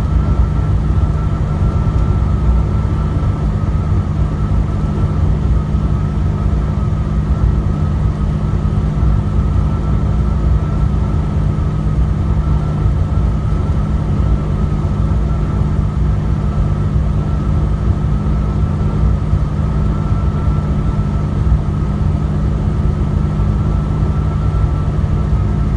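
Truck engine and road noise heard from inside the cab while driving: a loud, steady low drone and rumble that holds unchanged throughout.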